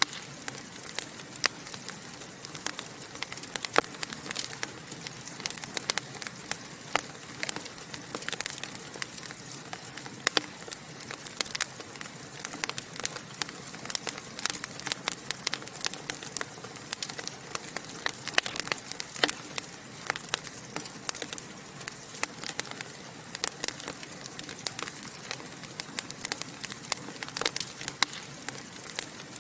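Wood fire burning in a fireplace, crackling and popping with dense, irregular sharp snaps over a soft steady hiss.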